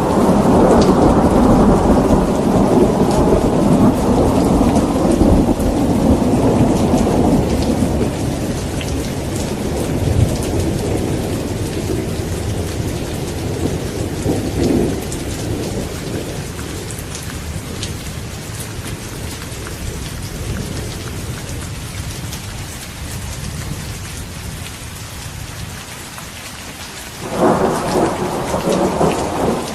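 Steady rain falling during a thunderstorm, with rolling thunder. A long low rumble fades away over the first ten seconds or so. A shorter swell comes about halfway, and a new peal starts suddenly near the end.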